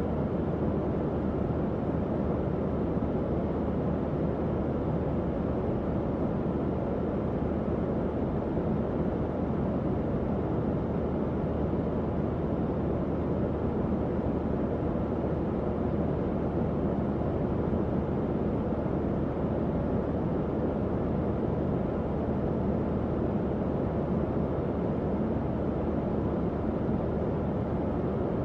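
Tower fan running steadily: an even, low whooshing hum of moving air with a faint motor drone, unchanging throughout.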